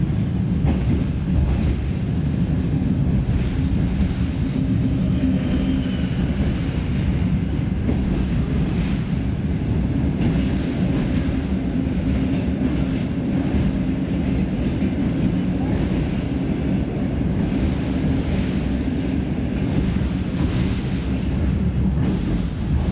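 Passenger-car interior of a DR1A diesel multiple unit running at speed: a steady low rumble of its diesel engine and wheels on the track, with a faint steady hum.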